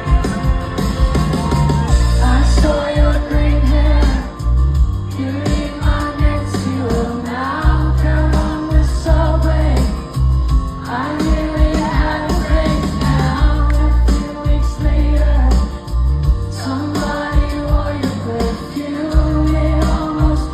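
Live pop song played through a concert PA: female lead vocal over a band with heavy, pulsing bass.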